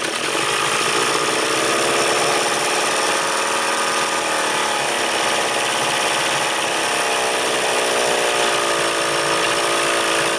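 1975 Evinrude 40 hp two-stroke outboard motor running steadily, its speed dipping and recovering a couple of times, while its bottom cylinder is being tested in the hunt for an intermittent spark problem.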